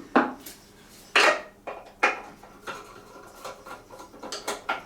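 Scattered sharp metallic clinks and clicks of a screwdriver and small tap parts being handled at a sink, the loudest two near the start and about a second in.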